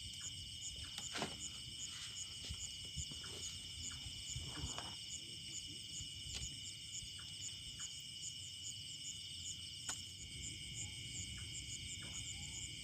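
Steady chorus of insects: several high, continuous trills, one of them pulsing about three times a second, over a low rumble, with a few faint clicks.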